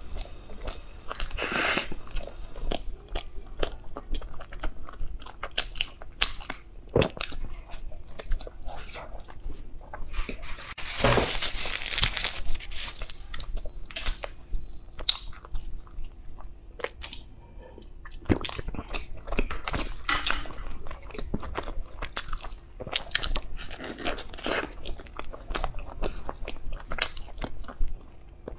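Close-miked eating sounds: biting into and chewing soft ice-cream-filled bread buns, with many short irregular mouth clicks and smacks.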